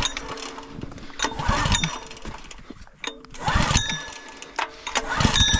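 A few clicks and knocks, then an engine starts near the end and runs with a fast, even beat.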